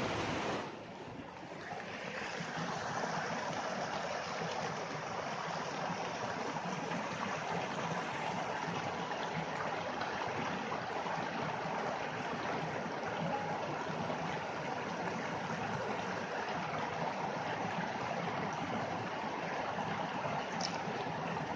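Rainwater overflowing and running in a steady rush of water, dipping briefly about a second in and then holding even.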